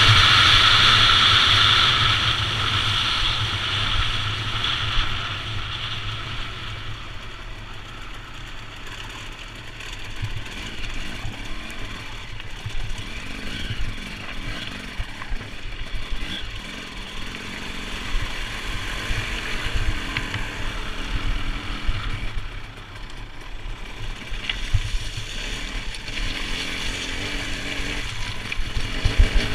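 Motorcycle engine, loud at first and fading over the first several seconds, then running lower and unevenly, with a few sharp knocks near the end.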